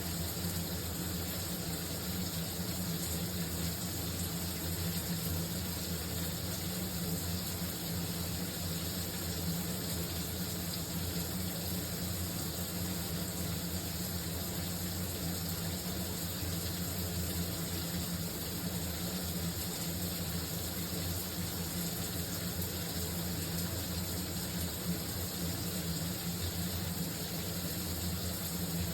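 Shower running: a steady, unbroken spray of water with a low even hum beneath it.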